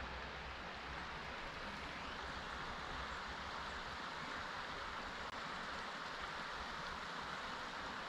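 Steady outdoor ambient noise, an even rush with no distinct events.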